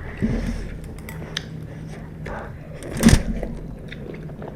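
Close-up chewing of spicy Korean ramen noodles: small wet mouth clicks, with one louder short sound about three seconds in.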